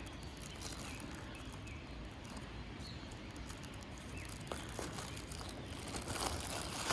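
Steady low outdoor background noise with a few faint, short chirps and a single knock near the end.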